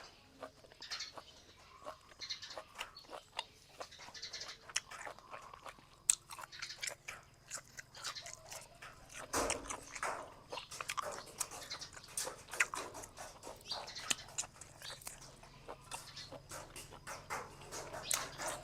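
Close-up eating of Thai boat noodles with sliced pork: wet chewing and slurping, with many short sharp clicks and smacks throughout.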